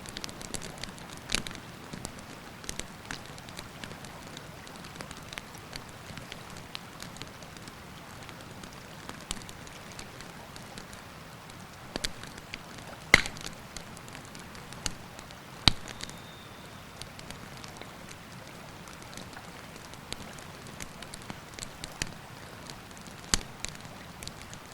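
A wood campfire crackling, with irregular sharp pops and snaps, two louder ones about halfway through. Under it runs the steady rush of a river.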